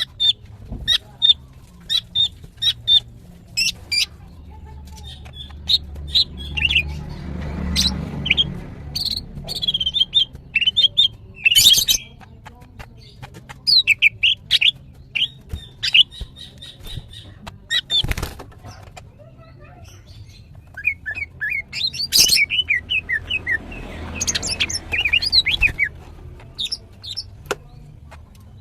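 Female greater green leafbird (cucak ijo) calling in a rapid run of short, sharp chirps and chattering trills. It is the excited, in-season female call that is used to draw males into song.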